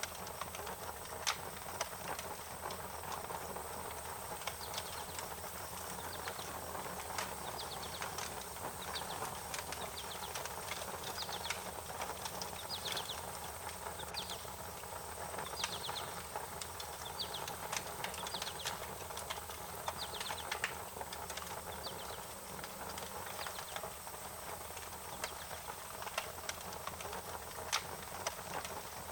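Wood fire crackling, with frequent sharp pops and snaps over a steady hiss. Short high chirps come in clusters from about 5 to 21 seconds in.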